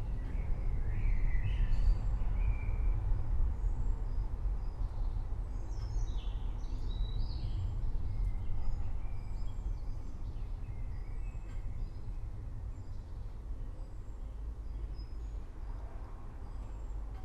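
Forest birds chirping and calling over a steady low rumble of distant thunder. The chirps are thickest in the first half and thin out toward the end.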